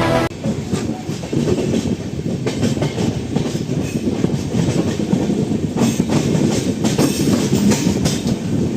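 Train running on the track, wheels clattering over rail joints with a steady rumble and repeated clicks.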